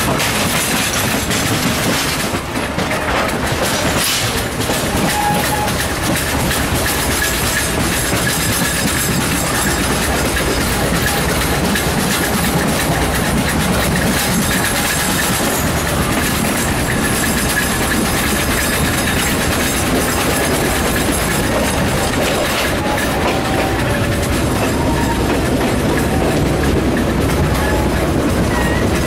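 Passenger train running steadily, heard from an open window of the carriage: continuous rumble and clatter of the wheels on the track.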